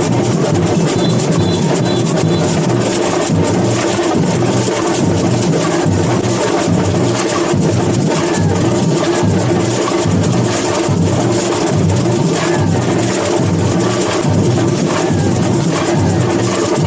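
Samba bateria (percussion band) playing a steady, driving samba rhythm, with deep drums keeping a repeating low pulse under dense, crisp drumming.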